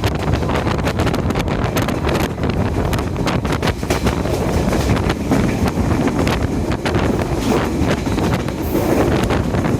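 Intercity diesel multiple unit train running along the track: a steady rumble with rapid, irregular clicks and knocks from the wheels and couplings, and wind buffeting the microphone.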